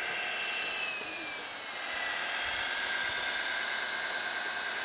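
Whine of a radio-controlled scale model's electric motors and gearing: several steady high tones, one sliding down in pitch about a second in.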